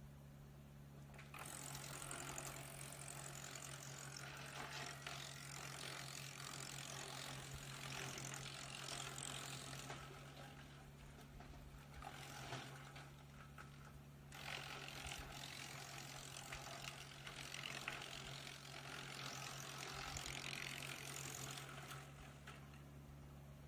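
Tractor-powered hydraulic-feed wood chipper running with a steady hum while chipping branches. The crackling chipping starts about a second in, pauses for about four seconds near the middle, then resumes.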